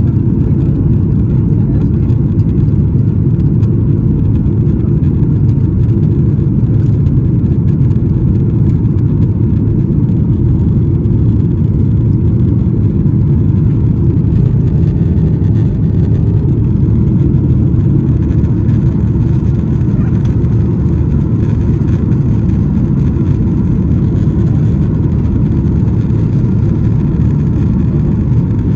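Boeing 737-800's CFM56 turbofan engines running at steady high power, heard inside the cabin as a loud, even low rumble with no change in pitch or level.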